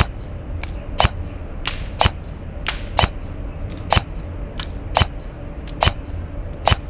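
KWA SR10 airsoft electric rifle (AEG) firing single semi-auto shots with 0.3 g BBs, about one a second, eight shots in all. Each sharp shot is followed by a fainter click.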